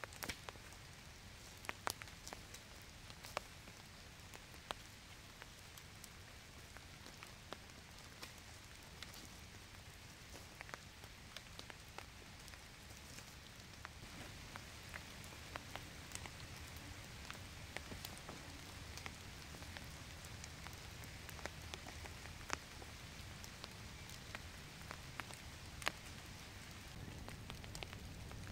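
Steady light rain falling on the woods, a soft even hiss with many scattered sharp ticks.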